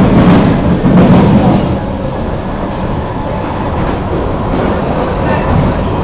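Kawasaki–CSR Qingdao Sifang C151A metro train running between stations: a steady rumble of wheels on track, a little louder in the first second and a half.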